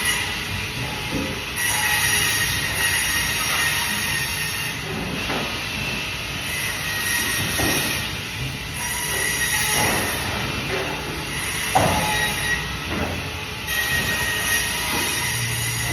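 Band saw cutting through fish: the blade runs with a steady high screech, and short knocks come every couple of seconds.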